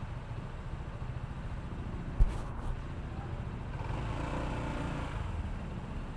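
Honda ADV160 scooter's single-cylinder engine running while riding, over a steady low rumble of road and wind noise. A sharp thump about two seconds in, and an engine note swells briefly in the second half.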